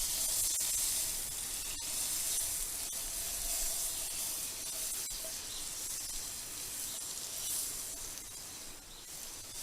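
Butter sizzling as it melts in a hot pan, a steady high hiss that slowly fades toward the end.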